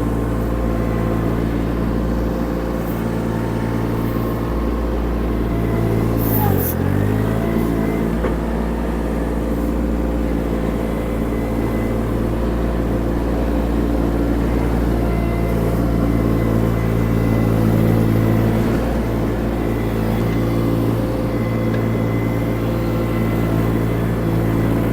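Baumalight TRL620D diesel mini skid steer engine running steadily while the machine works. About six and a half seconds in, the engine briefly pulls down under load and then recovers.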